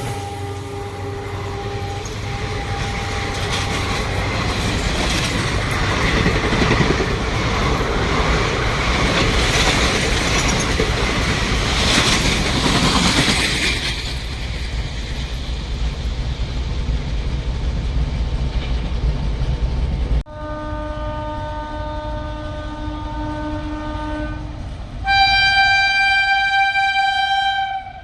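A passenger train running past on the rails, its steady rumble and wheel noise building to a peak about halfway through. After an abrupt cut a locomotive horn sounds, one long blast and then a second, louder one near the end.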